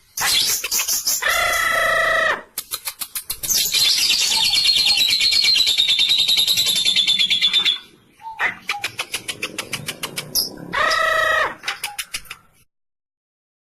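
Lovebirds chattering in long, rapid trills of sharp repeated notes (the 'ngekek' song), the longest run lasting about four seconds in the middle. A few held buzzy tones come near the start and again after about eleven seconds, and all sound stops shortly before the end.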